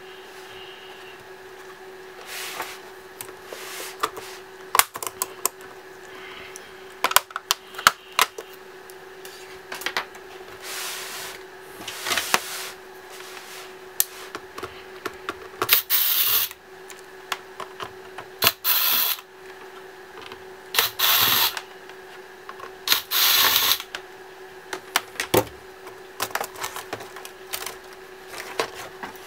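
Laptop disassembly with tools: scattered clicks and taps of screws and plastic casing being handled, broken by four short whirring bursts of about a second each from an electric screwdriver. A faint steady hum runs underneath.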